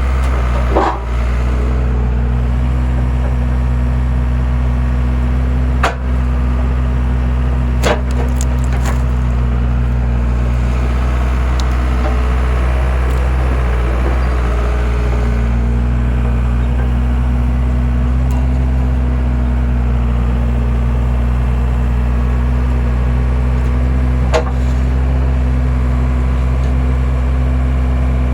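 Skid steer engine running steadily while driving a homemade log splitter. A few sharp cracks or knocks of wood splitting come through, one about a second in, two around six and eight seconds, and one near the end.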